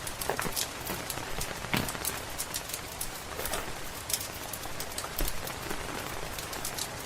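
Steady rain hissing, with frequent sharp irregular pops and crackles from a wood fire in a fireplace.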